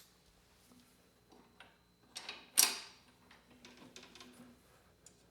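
Scattered light clicks and knocks of bolts and hardware being fitted to a lawn mower handle, with one louder, sharper click about two and a half seconds in.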